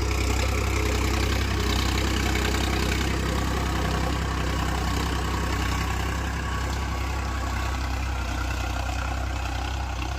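Powertrac Euro 50 tractor's diesel engine running steadily with a deep, even hum.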